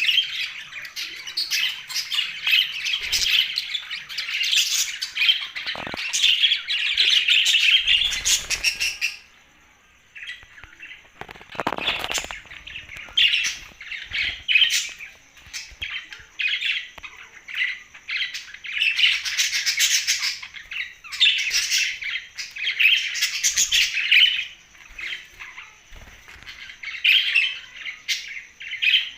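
Pet budgerigars chattering with quick chirps and squawks, with a brief break about a third of the way in.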